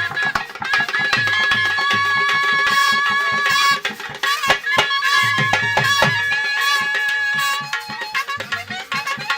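Traditional folk music: drums beating quick, dense strokes under a reed wind instrument holding long high notes. The melody breaks off briefly about four seconds in, then carries on.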